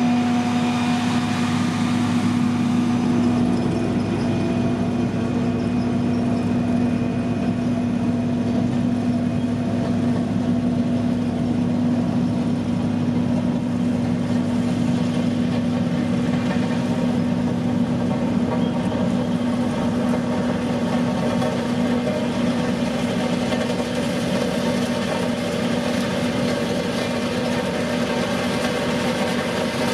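Heavy construction machine's engine running steadily at an even speed, with a constant hum.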